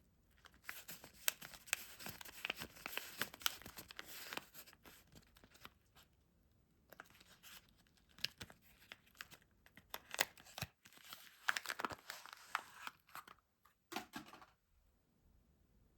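Soap wrappers being torn open and crinkled by hand, in several bouts of crackly tearing and rustling with short quiet pauses between.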